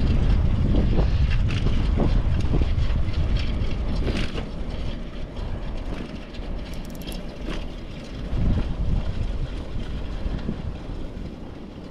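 Wind buffeting the microphone and road noise from a bicycle in motion: a steady low rumble with a few light clicks, easing somewhat after about five seconds.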